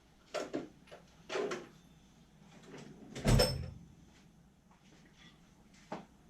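A few light knocks, then a heavier thump about three seconds in with a brief metallic ring.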